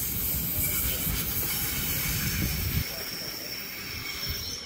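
Sydney Trains Waratah electric train pulling away along a curving track. Its low rumble drops off about three seconds in, while a thin, high, steady wheel squeal carries on.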